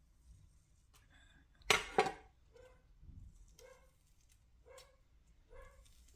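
Dishes or cookware clattering twice in quick succession about two seconds in, followed by a run of faint, short, pitched sounds about once a second.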